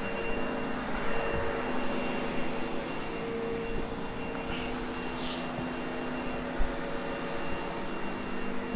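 Sebo X8 upright vacuum cleaner running steadily, its motor giving a constant whine. A single short knock about six and a half seconds in.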